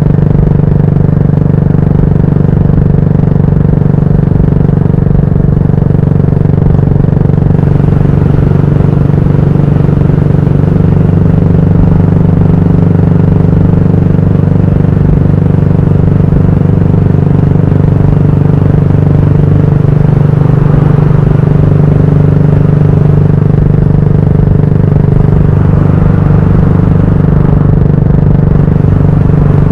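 Yamaha SR400's air-cooled single-cylinder engine running through a GOODS tapered-cone aftermarket muffler, holding a steady note under way, with small shifts in pitch about ten and twenty seconds in.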